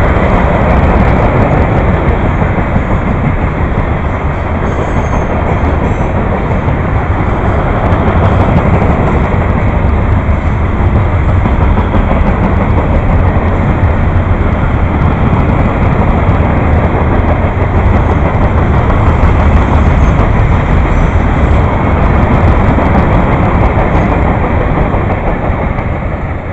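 A train's cars rolling past at close range: a steady, loud noise of wheels on rails that eases off near the end.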